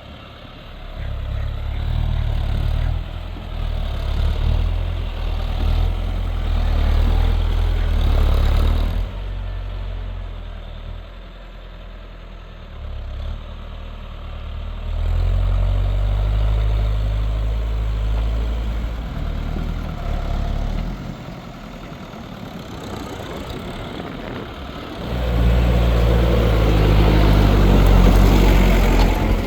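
New Holland TL100 tractor's diesel engine working while plowing with a mounted plow. Its level swells and fades several times as it works the field, and it is loudest near the end.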